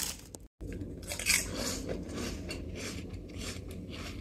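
A person chewing a crunchy snack with her mouth full: irregular crunches, the loudest about a second in, over a steady low hum.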